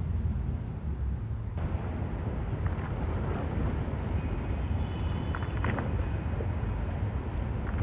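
Outdoor city ambience: a steady low rumble of traffic under an even background hiss. The background changes abruptly about one and a half seconds in, and a few faint, brief high tones and clicks come about two thirds of the way through.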